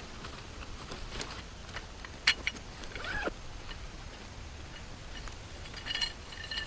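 Handling noises of gear being moved about: a few sharp clicks, a short creak falling in pitch about three seconds in, and a light ringing clink near the end, over a steady background hiss.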